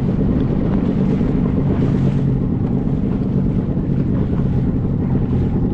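Motorboat engine running steadily under way, with wind rumbling on the microphone.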